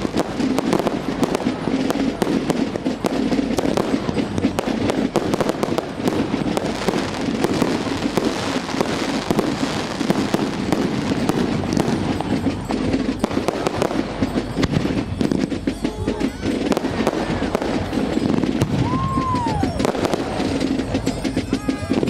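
Fireworks going off: a dense, continuous crackling and popping of bursting shells. A short whistle rises and falls about nineteen seconds in.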